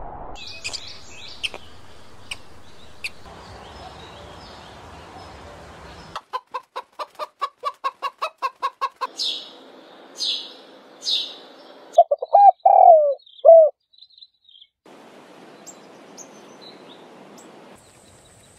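A series of bird calls. Scattered high chirps are followed by a rapid, even run of about a dozen short notes, about four a second, then three sharp falling chirps, then several loud wavering calls, the loudest of all. A faint steady high tone enters near the end.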